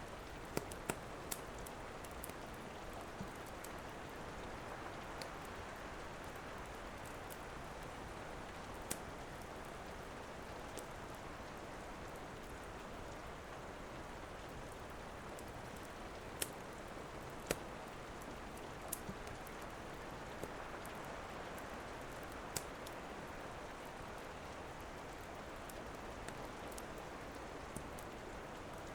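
Steady rain falling, with scattered sharp pops from a crackling wood fire every second or few.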